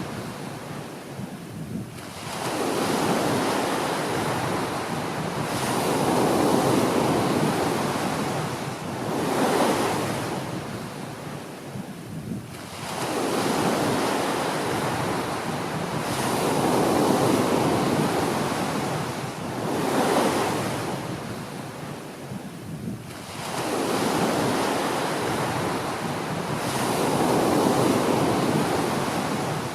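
Small ocean waves breaking and washing up a beach, the surf swelling and falling back every few seconds in an uneven rhythm.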